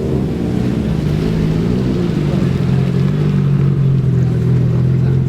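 Car engine running at low revs close by, its pitch easing down about a second in and then holding steady.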